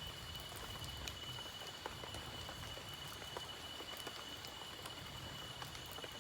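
Light drizzle at night: scattered drips ticking over a soft, even hiss, with a steady high-pitched tone running throughout.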